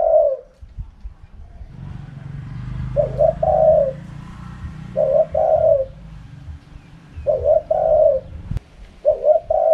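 Spotted dove cooing in its wild-style call pattern. Four phrases about two seconds apart, each a couple of quick notes running into a longer coo. A low rumble sits under the first phrases, and a single sharp click comes just before the last one.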